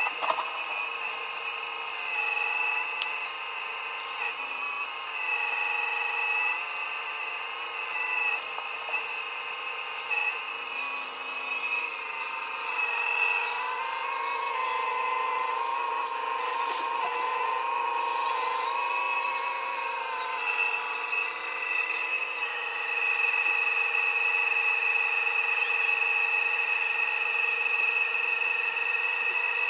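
Steady high-pitched motor whine made of several held tones that waver slowly up and down in pitch, with faint clicks now and then.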